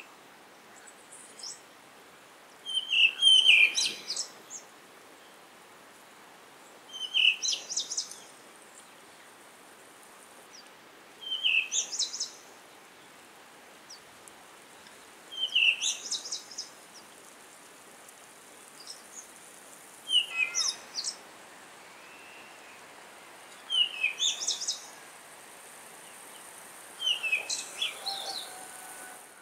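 A songbird repeats the same short, high, chirping phrase about every four seconds, seven times in all, over a faint steady hiss.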